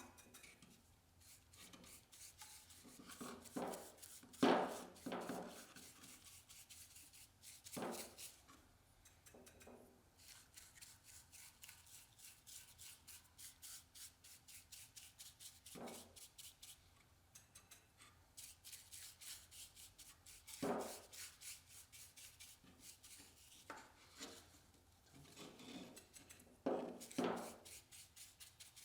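A cloth rubbing butcher block oil onto a cedar birdhouse in quick repeated strokes, about two a second, with a few louder knocks as the wood is handled.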